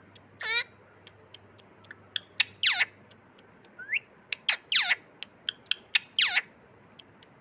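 Parrot calling: four loud, steeply falling calls about two seconds apart, with a shorter rising call between them. Many sharp clicks are scattered among the calls.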